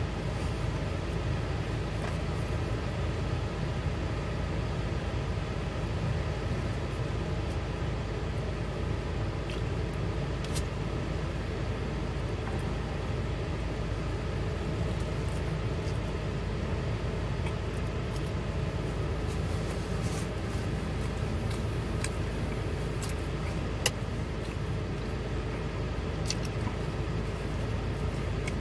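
Steady low rumble of a car idling, heard from inside the cabin, with a few small clicks on top.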